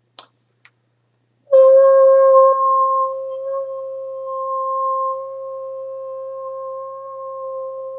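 Singing bowl struck once about a second and a half in, then ringing one steady, pure note with a fainter octave above it, swelling and fading slightly as it sustains. Two small clicks come just before the strike.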